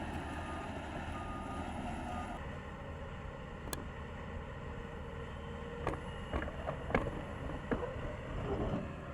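Heavy equipment's diesel engine running under load, with a backup alarm beeping repeatedly for the first couple of seconds and several sharp knocks later on as the machine works at breaking a concrete wall off its footing.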